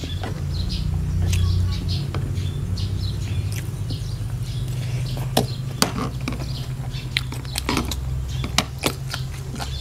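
A person chewing a mouthful of spicy duck-egg salad close to the microphone, with several sharp crunchy clicks in the second half, over a steady low hum.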